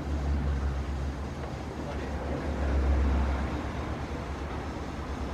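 Propeller drone of a Cessna 208A Caravan I's single PT6A turboprop flying low overhead: a steady low drone, a little louder about three seconds in.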